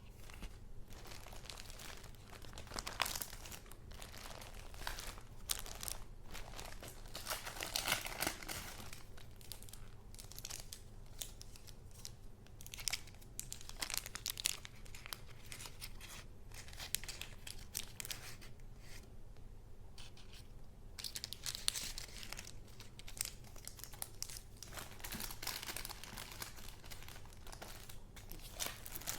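Paper and plastic sleeves being handled: continuous crinkling and rustling with irregular soft clicks as sheets are turned and shuffled, over a low steady hum.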